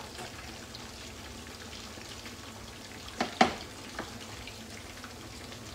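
Thick aubergine slices shallow-frying in oil in a frying pan, a steady sizzle. About three seconds in, a few sharp knocks, the loudest in the middle, as a stainless steel pan is set down on the hob.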